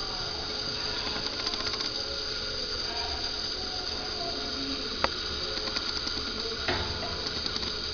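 Steady background hum and hiss, with a single sharp click about five seconds in.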